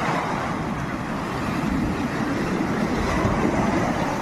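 Sea surf washing ashore, a steady rushing noise that swells a little about three seconds in.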